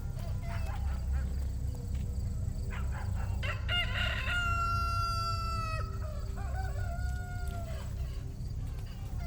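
A rooster crowing once, a long call with a held final note, followed by a few shorter calls, over a steady low hum.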